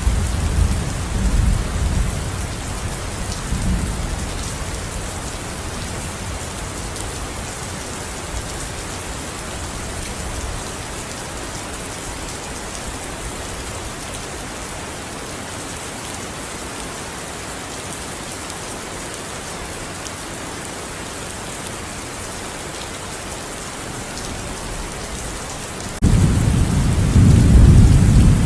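Steady heavy rain with rolling thunder: a low rumble of thunder fading over the first few seconds, then rain alone, until a loud thunder rumble starts abruptly near the end.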